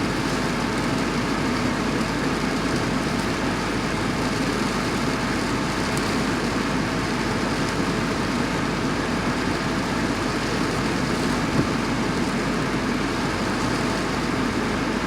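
Steady rain of medium-sized drops falling, with a car engine idling underneath.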